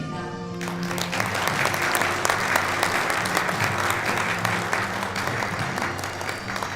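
An audience applauding over background music; the clapping starts about half a second in.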